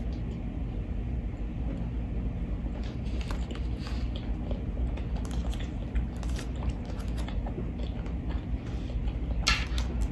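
Close-miked chewing of a fried chicken sandwich, with scattered small crackles and clicks as the sandwich is handled, and one louder crackle near the end. A steady low hum runs underneath.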